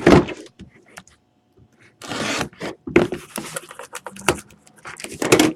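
Hands opening and handling a hockey card box and its packaging: irregular rustles and scrapes with small clicks and knocks, the loudest at the very start and near the end.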